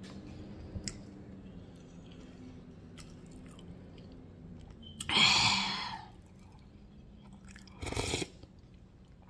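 Close-up eating sounds: a person chewing food, with a loud crunchy burst lasting about a second some five seconds in and a shorter one near the end.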